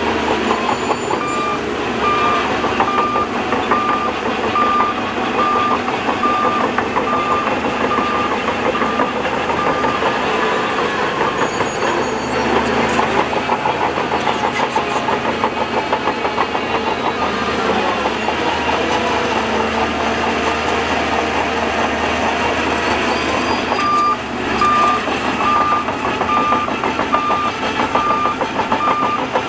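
Heavy earthmoving machinery running with its engine under steady load, while a reversing alarm beeps just over once a second. The beeping runs for the first third and starts again near the end.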